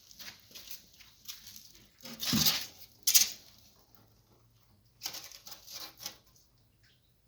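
Irregular scratching, rustling and clattering, as when live mud crabs are handled or scrabble against each other. There are louder bursts about two and three seconds in and another cluster around five to six seconds.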